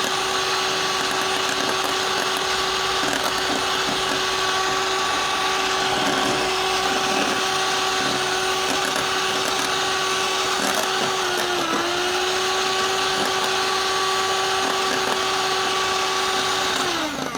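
Electric mixer whipping cream, its motor running at a steady pitch with a brief dip about two-thirds of the way through, then winding down and switched off at the end. The cream is close to, but not yet at, soft peaks.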